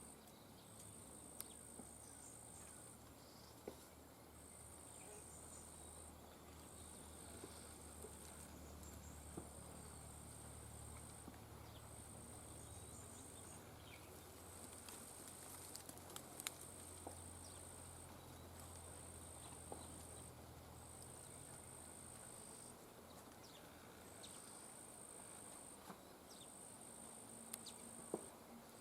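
Faint, high-pitched insect trilling, repeated in calls about one and a half to two seconds long with short gaps between them, over a low hum with a few faint clicks.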